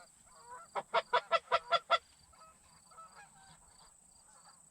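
Geese honking: a quick run of about seven sharp honks in just over a second, followed by fainter, scattered honks.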